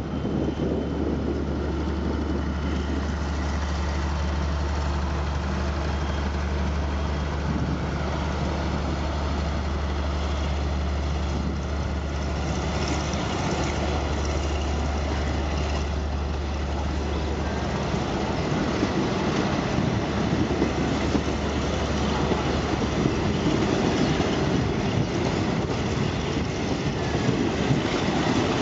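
Locomotive-hauled passenger train pulling out: a deep steady diesel engine drone for the first half, fading at about 18 seconds as the rumble and clatter of the passing coaches' wheels on the rails grows louder.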